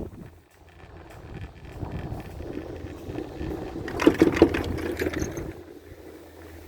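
Ride on a four-seat chairlift: mechanical rumbling with wind on the microphone, swelling into a louder rattling rumble about four seconds in.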